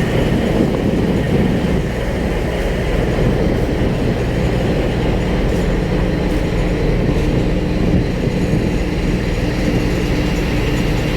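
Steady low rumble of a ship's diesel engines running. A faint steady hum joins about halfway through.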